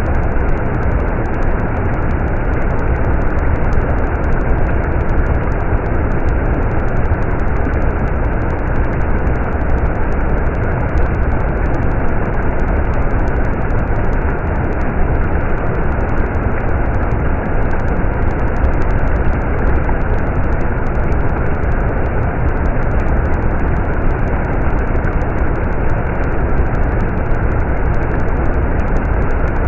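A stream's water running in a steady, unbroken rush, heavy in the low end and muffled, with nothing in the higher pitches.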